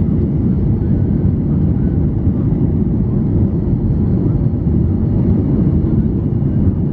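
Cabin noise aboard a Boeing 737-800, from a rear window seat: a steady deep rumble of the CFM56-7B engines and airflow, with a faint high engine whine.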